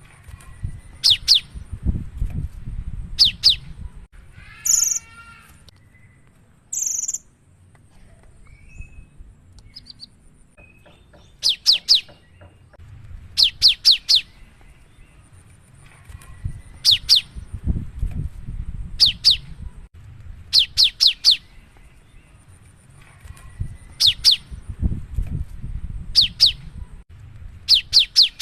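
Cinereous tit (gelatik batu) singing loudly in repeated phrases of two to four sharp, high notes, each falling in pitch, every second or two. A harsher buzzy call comes about five seconds in, and a low rumble sits under some phrases.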